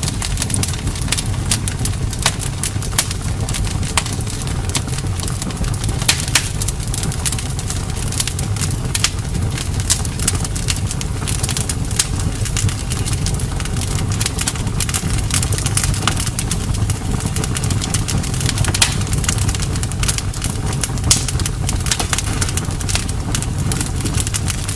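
Campfire burning, with many sharp crackles and pops from the wood over a steady low rumble of the flames.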